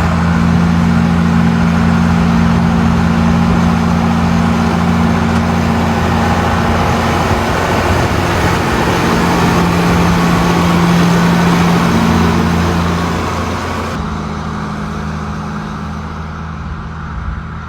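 A motor vehicle's engine running steadily with a low hum, over a broad rushing noise. The sound changes and gets a little quieter about three-quarters of the way through.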